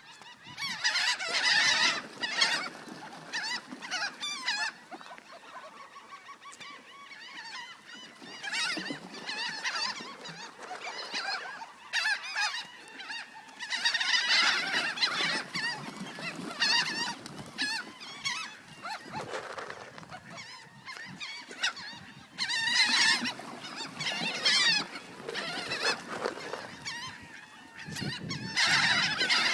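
A group of birds calling noisily in clusters of rapid, high, harsh calls, with quieter lulls between the loud bursts, clamouring for food.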